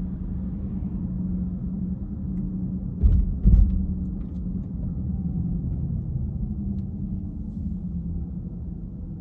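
Car driving, a steady low road-and-engine rumble with a hum, broken by two loud thumps about half a second apart some three seconds in.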